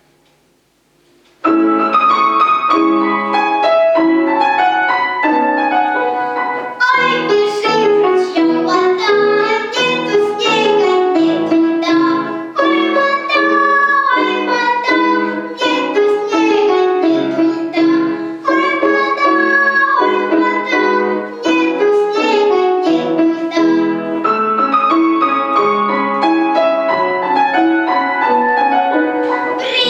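Piano-sounding keyboard accompaniment to a children's song, starting suddenly about a second and a half in and playing a melody over held chords.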